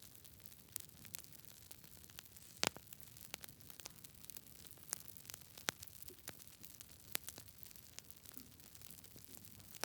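Wood fire crackling in a fireplace: irregular sharp pops and snaps over a soft hiss, the loudest pop just under three seconds in.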